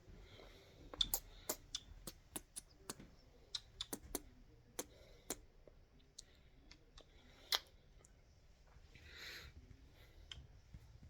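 A pet bird's beak clicking and tapping in faint, irregular sharp clicks, the loudest about seven and a half seconds in.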